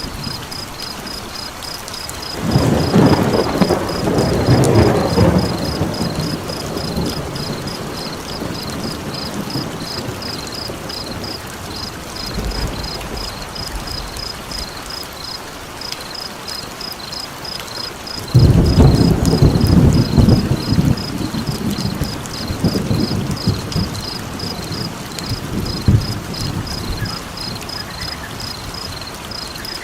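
Two long rolls of thunder, one about two and a half seconds in and a louder one about eighteen seconds in, over steady rain. A cricket chirps in a fast, even pulse throughout.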